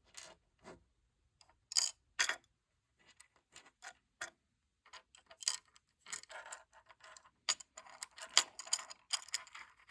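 Small plastic LEGO pieces clicking and rattling as they are handled, pried loose and pressed back into place, in irregular short clicks that come thicker in the second half.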